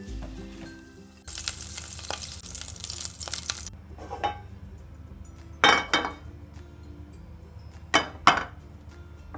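Food sizzling in a hot pan for a couple of seconds, then a metal utensil clinking against the pan twice in quick pairs, over background music.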